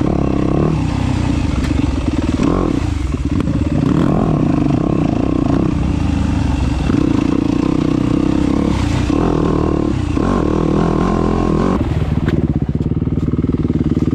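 Dirt bike engine being ridden hard off-road, revving up and down over and over as the throttle is worked.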